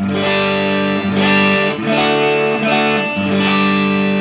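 Electric guitar strumming a few chords through a JTM 45-style valve amp with spring reverb, clean with just a little breakup; each chord rings on before the next, about four in all.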